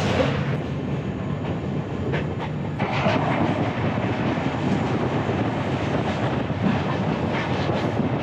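Passenger train running at speed, a steady rumble and rush of wheels on rails with a few sharp clacks over rail joints about two to three seconds in.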